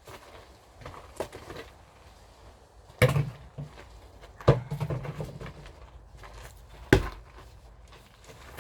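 Firewood being split: three sharp wooden strikes about three, four and a half and seven seconds in, with fainter knocks of wood between them.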